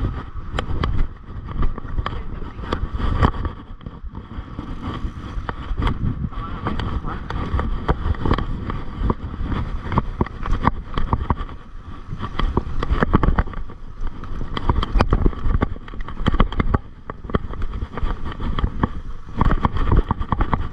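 Mountain bike ridden over a rough, wet dirt trail: a steady rumble with many sharp knocks and rattles from the bike jolting over bumps.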